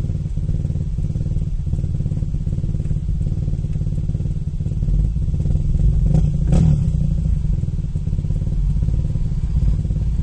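2002 Nissan Maxima's 3.5-litre VQ35DE V6 running with a steady low drone and faint irregular knocks, swelling briefly a little past the middle; the engine is being diagnosed for a random misfire (P0300).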